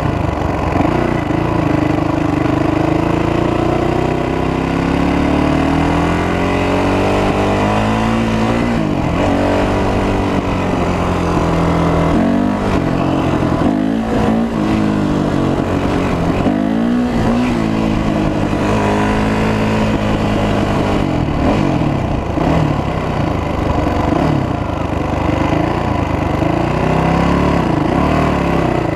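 Honda 450 dirt bike engine heard from the rider's seat while riding, revving up and easing off over and over, its pitch climbing and dropping with throttle and gear changes.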